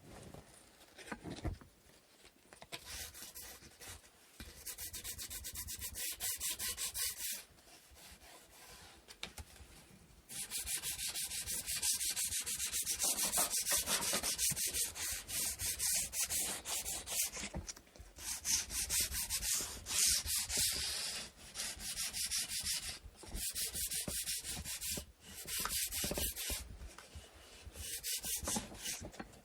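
Sandpaper rubbed back and forth over a wooden inkle loom part, in runs of quick strokes a few seconds long with short pauses between them, louder from about ten seconds in.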